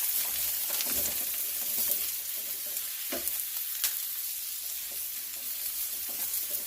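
Chopped onion, garlic and cumin seeds sizzling steadily in hot oil as curry powder is stirred into the pan. The stirring spoon knocks and scrapes against the pan a few times.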